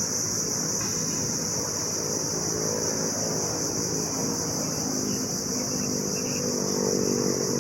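Steady high-pitched drone of an insect chorus, with the hum of a distant engine that grows louder toward the end.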